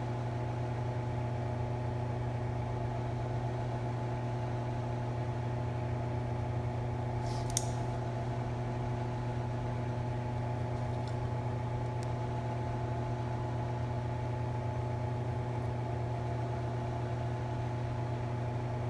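Steady low mechanical hum with one sharp click about seven and a half seconds in and a couple of faint ticks a few seconds later.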